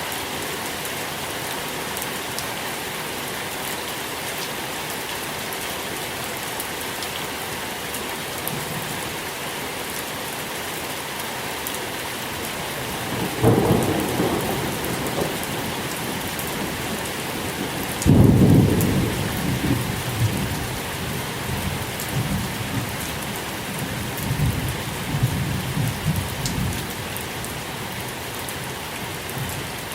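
Steady rain falling, with thunder: a low rumble about halfway through, then a louder clap a few seconds later that rolls on for several seconds.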